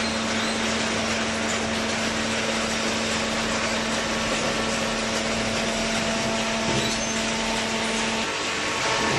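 Cardboard baler's hydraulic power unit running: a steady hum over a broad mechanical noise, the hum dropping out briefly near the end.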